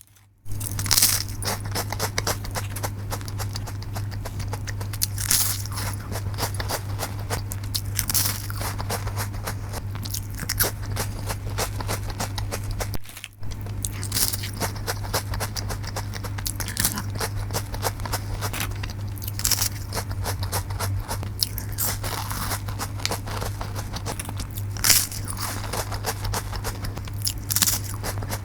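Close-miked crunching and chewing of Malkist cheese crackers, with a loud crisp bite every few seconds.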